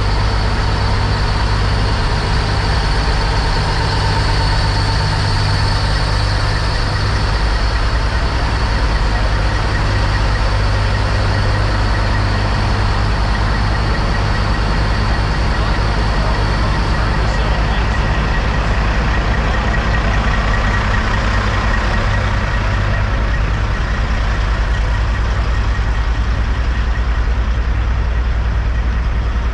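Diesel semi-truck engines idling together in a steady low rumble that does not change.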